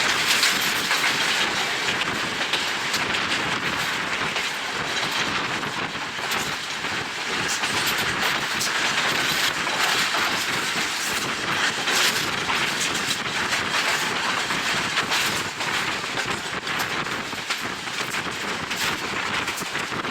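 Passenger train running along the line: a steady rush of wind and running noise, with wheels clicking over the rail joints.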